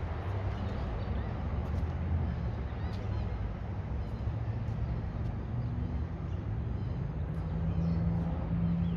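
Passenger train running, a steady low rumble with a few faint clicks.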